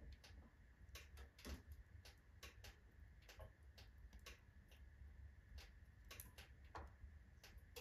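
Wood fire of alder and oak logs crackling in a fireplace stove: faint, irregular snaps and pops, a few a second, over a low steady hum.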